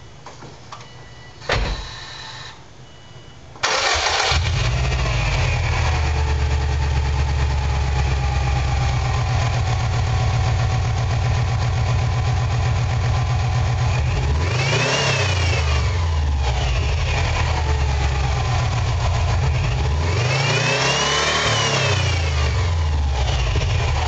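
2005 Subaru WRX's EJ205 2.0-litre turbocharged flat-four, fitted with an HKS exhaust, is cranked briefly and catches about three and a half seconds in. It runs at a fast cold idle that slowly settles lower, and is revved up and let fall back twice, near the middle and again near the end.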